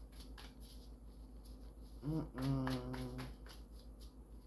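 A short hummed "mm-hmm" from a person's voice about two seconds in, lasting about a second, over a quiet room with a steady low electrical hum.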